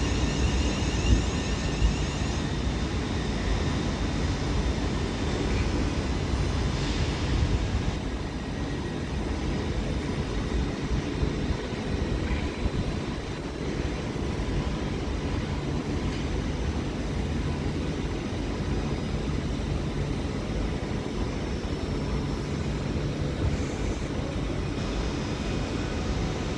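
Class 350 electric multiple unit pulling slowly into a terminus platform: a steady low rumble with faint steady whining tones above it, and a brief high chattering in the first two seconds.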